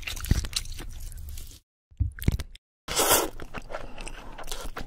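Crunchy chewing and biting sounds, close and crackly, in short edited snippets that break off into dead silence twice, about one and a half and two and a half seconds in.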